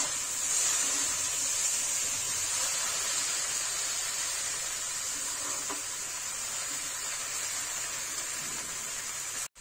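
Chopped okra and onion sizzling steadily as they fry in oil in a kadhai over a high flame, with a faint spatula click about halfway through. The sound cuts off abruptly just before the end.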